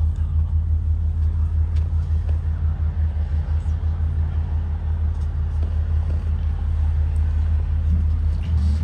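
Propane-powered Blue Bird Vision school bus engine running steadily with a low, pulsing drone.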